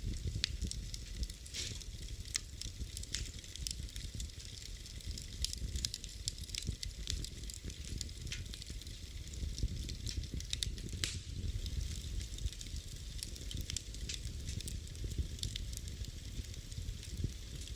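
Wood fire burning in a fireplace: a steady low rumble and hiss with frequent irregular crackles and pops.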